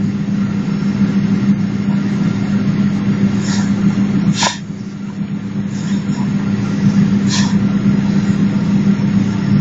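Cabin noise inside a Boeing 777-300 on the ground after landing: a steady drone from the engines and air conditioning with a low hum. A few brief clicks occur along the way.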